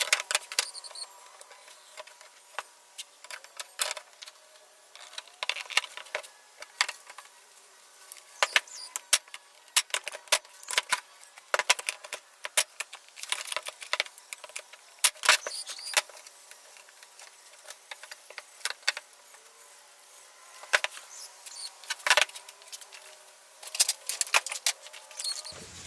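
Irregular light clicks and clinks in small clusters, typical of small metal tools and parts being handled on a workbench.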